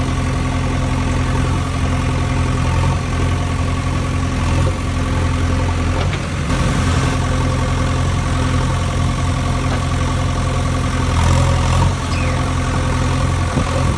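A heavy vehicle engine idling steadily, a constant low hum.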